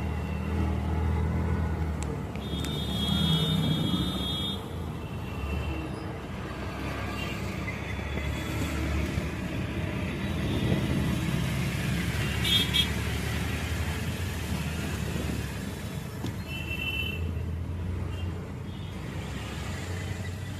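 Road traffic: vehicle engines rumbling steadily, with a few short high-pitched horn toots, about three seconds in, around twelve seconds and around seventeen seconds.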